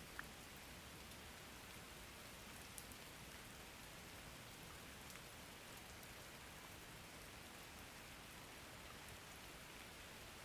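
Faint steady rain, with a few soft single drop ticks, the clearest just after the start and near three seconds in.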